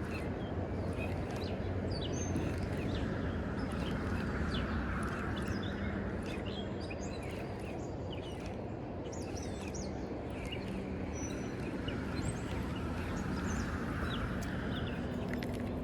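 Steady rush of river water, with many small birds chirping over it.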